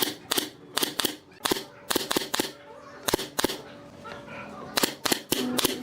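Sharp workshop tool impacts on wood, coming in quick pairs and short runs, about a dozen strikes with irregular gaps.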